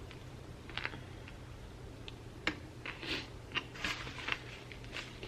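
Close-miked chewing of a Subway sandwich: soft, wet mouth clicks and smacks at irregular intervals.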